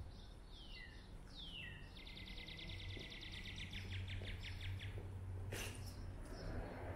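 A songbird singing: a few falling whistled notes, then a fast trill of rapidly repeated notes lasting about three seconds. A low steady hum runs underneath, and there is a single sharp click near the end.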